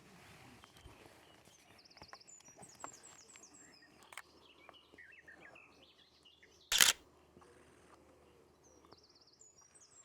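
A small songbird singing: quick series of short high notes with a buzzy trill, over faint outdoor background noise. About two-thirds of the way through comes one short, loud clatter, the loudest sound here.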